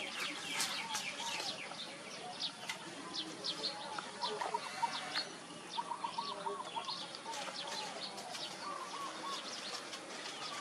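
Birds chirping busily: many short, quick high calls overlap, and a lower warbling call repeats several times.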